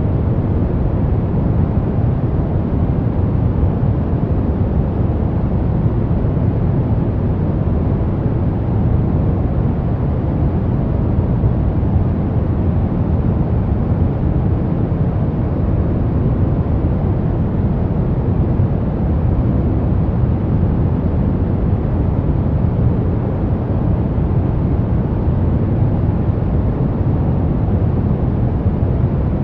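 Pink noise playing as a steady, unchanging rushing hiss, strongest in the low end.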